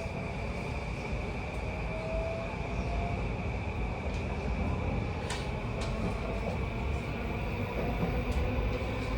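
Interior running sound of a JR E235 series motor car: steady wheel and track rumble with the whine of its Mitsubishi full-SiC MOSFET VVVF inverter and traction motors, including a faint rising tone. There are a couple of sharp clicks about five and a half seconds in.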